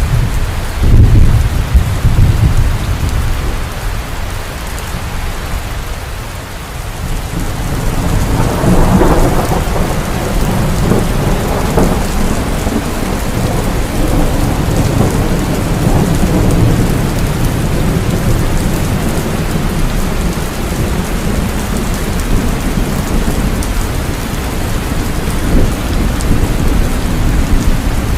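Heavy rain falling steadily with thunder: a deep rumble about a second in, then a longer rolling peal from about eight seconds that keeps grumbling under the rain.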